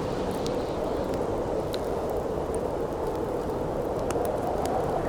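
Howling wind blowing steadily with a wood campfire crackling over it: scattered sharp pops and snaps.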